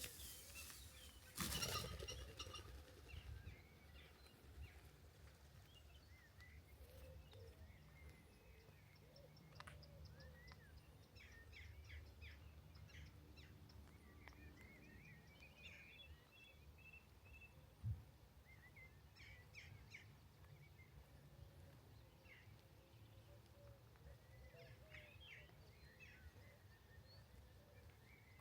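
Faint birdsong: small birds chirping in short, scattered phrases over a low steady rumble. About two seconds in there is a brief rush of noise, and a single sharp click comes about two-thirds of the way through.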